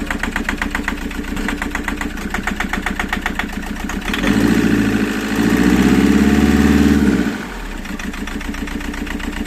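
Toyota engine idling with a rapid, regular ticking, revved up about four seconds in for roughly three seconds, then settling back to idle. This is the engine noise that appeared after a timing belt change, which the owner cannot trace.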